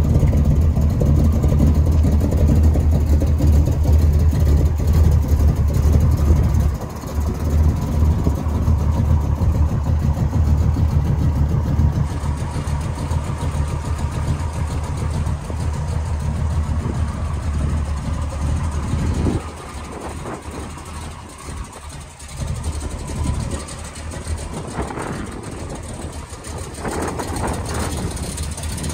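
1974 Chevrolet Caprice Classic's 454 cubic-inch big-block V8 idling steadily, a deep low-pitched running sound; it becomes noticeably quieter for the last third.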